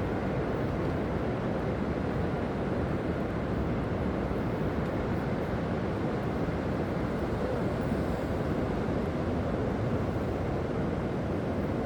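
Steady low rushing of sea surf and wind at the shoreline, even throughout with no separate knocks or clicks.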